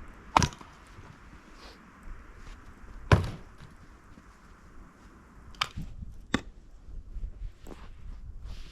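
Firewood being split by hand: two loud, sharp axe strikes into wood about three seconds apart, then two lighter knocks and a few faint clicks.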